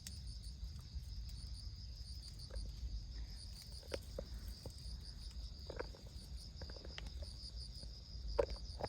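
Insects chirping steadily in a high, rapidly pulsing trill, with a few faint short knocks scattered through it.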